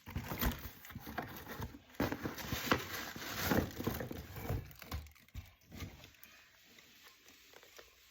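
Hair-dryer packaging being opened and handled: irregular rustling, crinkling and light knocks, thinning to a few isolated taps after about five seconds.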